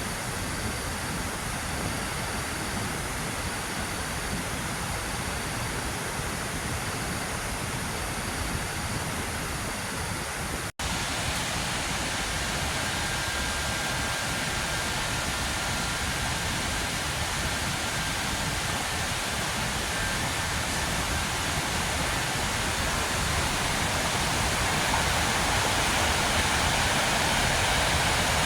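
Waterfall rushing in a steady, even roar of falling water, cut off for an instant about eleven seconds in, then a little louder toward the end.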